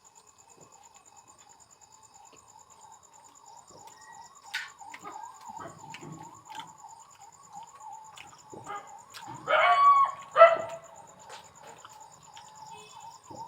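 Eating sounds, with scattered clicks and chewing, over a steady rapid warble in the background. About nine and a half seconds in comes a loud two-part call, the loudest thing here.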